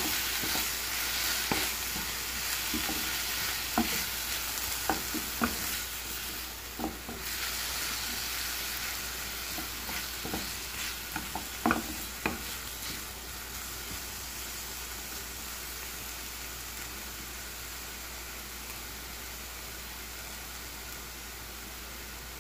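Chopped tomatoes, green chilies, shallots and garlic sizzling in hot oil in a frying pan, with a spatula scraping and knocking against the pan during the first dozen seconds. After that only a steady sizzle, slowly getting a little quieter.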